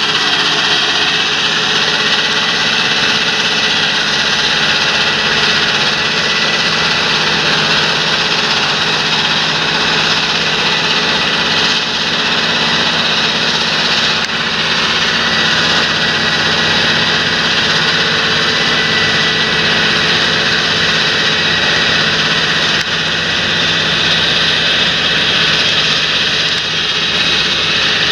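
Large John Deere tractor's diesel engine running steadily while working heavy ground, with a steady high whine over the engine noise.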